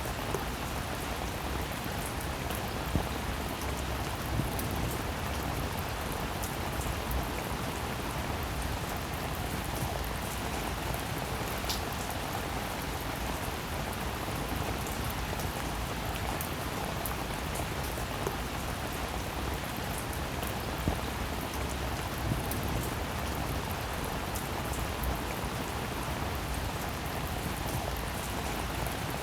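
Steady rain falling, an even hiss of drops with a few louder single drops striking now and then.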